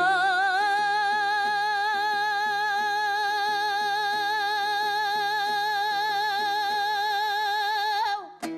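A singer holds one long high note with vibrato for about eight seconds in Kazakh epic (zhyr/terme) style, over steady dombra strumming. The note breaks off near the end.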